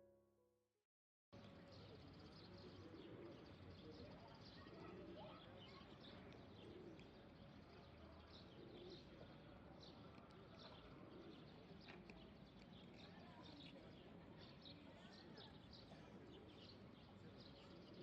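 Small birds chirping in short, scattered calls over a faint outdoor background hum, with a distant murmur of voices.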